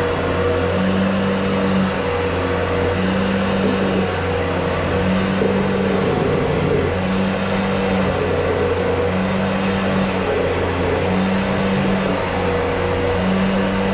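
A machine's motor running steadily, with a hum that cuts in and out about every two seconds.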